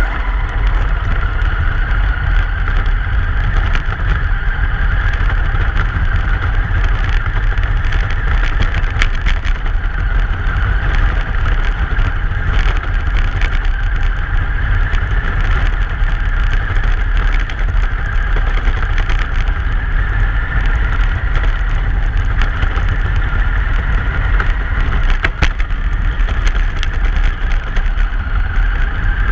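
Truck driving over snowy road, heard as a loud, steady low rumble of road and wind noise on the microphone, with a steady higher whine above it and scattered light ticks.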